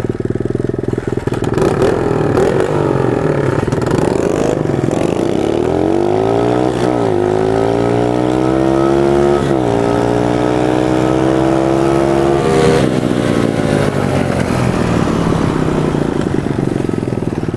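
Small single-cylinder pit bike engine revving up through the gears. Its pitch climbs, drops sharply twice as it shifts up, holds steady, then eases off about twelve seconds in.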